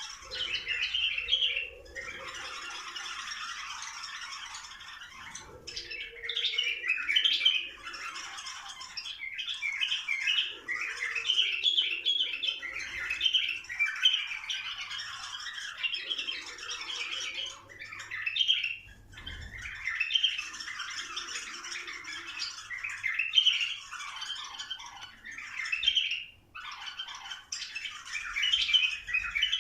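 Bulbuls singing and chattering in a dense, almost unbroken run of calls, with brief pauses every few seconds.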